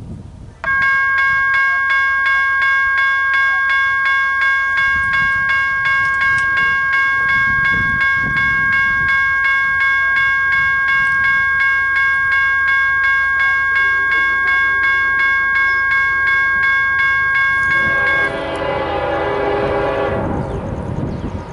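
Grade-crossing warning bell ringing steadily, its strokes pulsing about two to three times a second. About eighteen seconds in the bell cuts off and the approaching CSX freight's locomotive horn sounds with a lower chord.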